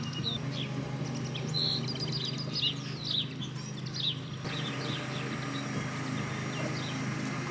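Small birds chirping and singing in quick, scattered calls, over a steady low hum.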